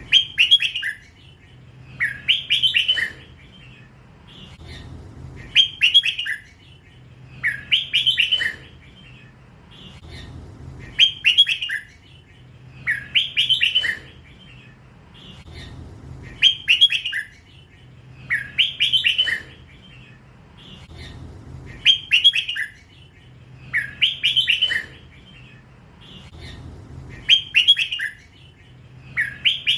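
A young hybrid red-whiskered bulbul singing loud, short warbled phrases over and over, about one every two seconds. This is the drawn-out 'lak wai' song style prized by Thai bulbul keepers. A faint steady low hum lies underneath.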